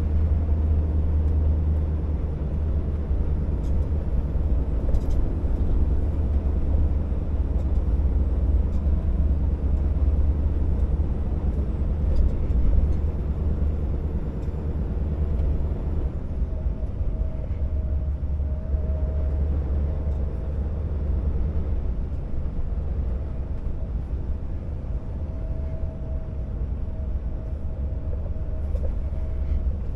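Scania R650 timber truck's V8 diesel engine running steadily under way, a deep low drone. About halfway through the engine note thins out and a steady high whine comes in over the drone.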